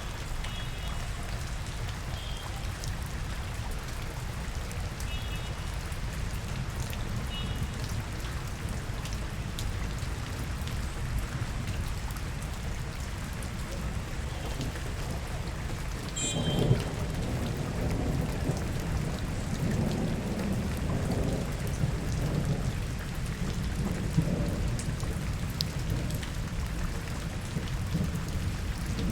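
Rain falling in a city street, a steady hiss over a constant low rumble. About sixteen seconds in, a louder low rumble swells up and lasts several seconds. A few faint short high beeps sound in the first seconds.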